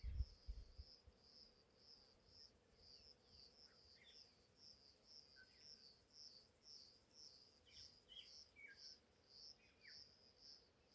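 Faint insect chirping in a steady rhythm, about two to three high chirps a second, with a few brief falling bird chirps. A couple of low bumps right at the start.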